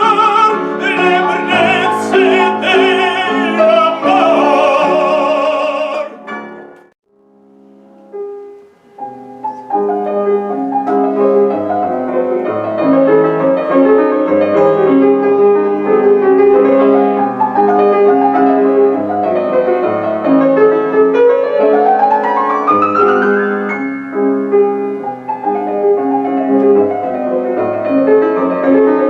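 Classical singing with vibrato over piano accompaniment, ending about six seconds in. After a brief hush with a few soft chords, solo piano plays on, with a fast rising run a little past twenty seconds.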